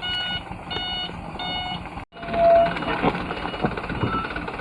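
Truck's reversing alarm beeping: three even beeps, about one every 0.7 seconds. After a sudden break about two seconds in, a vehicle engine running with rumbling noise.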